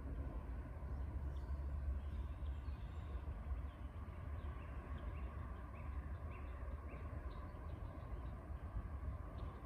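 Faint small birds chirping, with a run of four short chirps about halfway through, over a steady low rumble and hiss of outdoor background noise.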